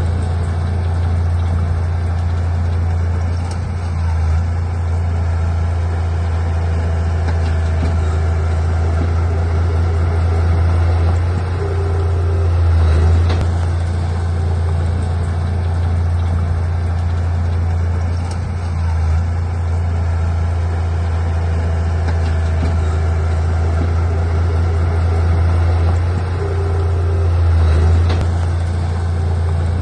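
Heavy diesel engine of earthmoving machinery running steadily: a deep, continuous drone that swells a little in loudness now and then.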